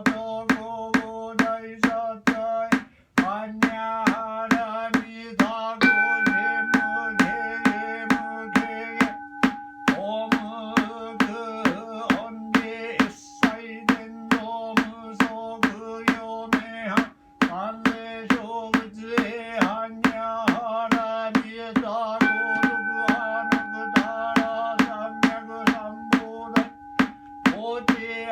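Monotone Buddhist sutra chanting by a Soto Zen priest, kept in time by steady knocks on a mokugyo wooden fish drum, about two strokes a second.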